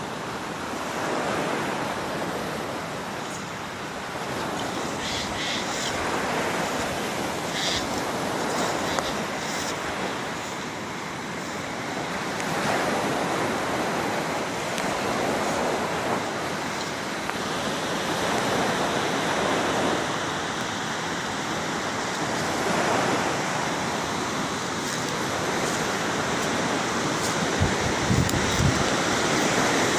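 Rushing water from a waterfall, a steady noisy roar that swells and eases a little, with a few faint high chirps in the first third and some low bumps near the end.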